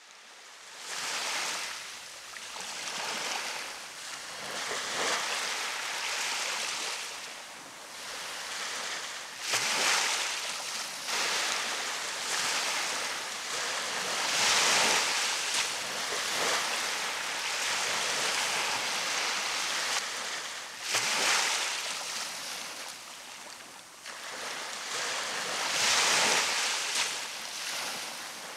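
Ocean surf washing onto a beach: a steady hiss of water that swells as each wave breaks, every few seconds.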